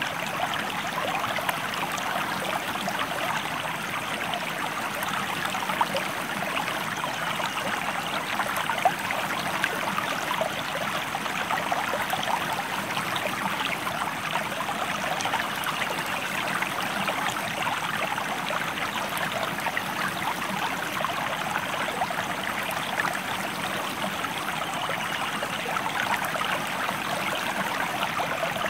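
Stream water flowing steadily, a constant rush peppered with many small splashes.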